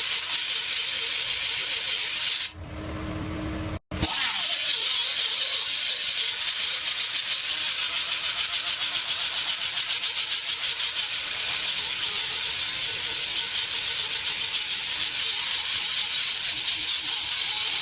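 A rotary grinder buffing out the damaged rubber around a puncture hole in a loader tyre, a steady abrasive hiss. It stops about two and a half seconds in, then starts again a second and a half later and keeps running.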